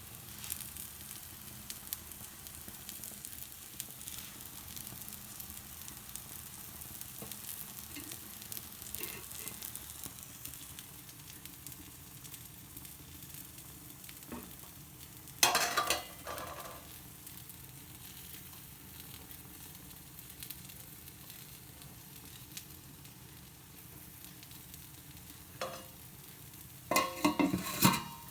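Food frying and sizzling in a pan with a steady hiss, stirred with a utensil; a loud clatter of the utensil against the pan comes about halfway through and again, in several quick knocks, near the end.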